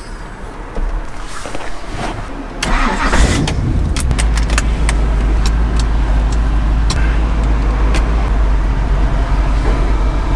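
Lamborghini Countach replica's engine starting about three seconds in, then running steadily with a strong low rumble. Scattered sharp clicks sound over it.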